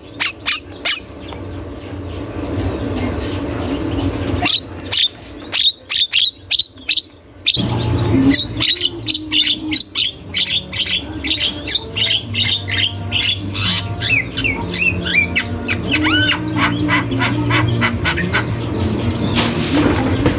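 Javan myna (jalak kebo) calling without pause: quick runs of short, harsh chattering notes, with whistled notes that bend up and down in the second half. A steady low hum comes in about a third of the way through.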